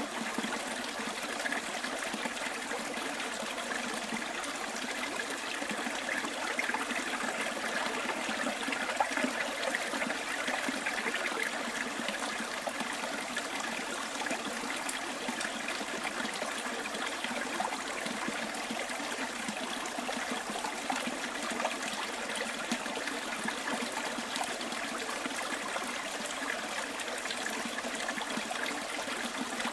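Small bush stream trickling and babbling steadily, a continuous water noise with small splashy flickers.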